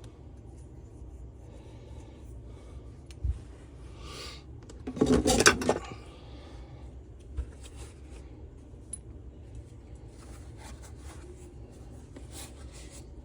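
Small metal engine parts and tools handled on a workbench during engine reassembly, with a short metallic clatter about five seconds in and a few light knocks and rustles around it.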